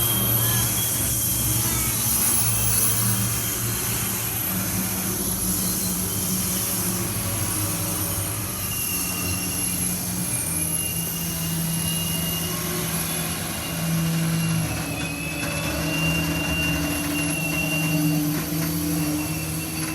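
Diesel-hauled grain train passing close by: locomotives and loaded hopper wagons rumbling along the track, with a thin high wheel squeal coming and going in the second half.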